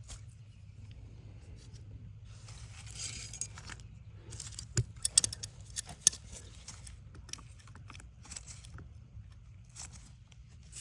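Small metal tools and wire being handled: light clicks and scrapes, with a short hissy rustle about two seconds in and a cluster of sharp metallic clicks about halfway through, over a faint steady low hum.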